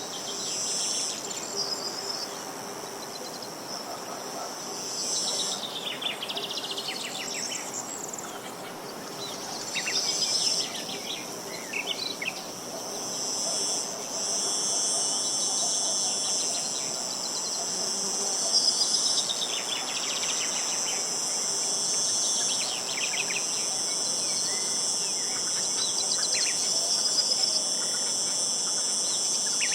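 Steady high-pitched insect chorus, crickets or cicadas, that gets louder about halfway through, with birds calling in short descending trills every few seconds.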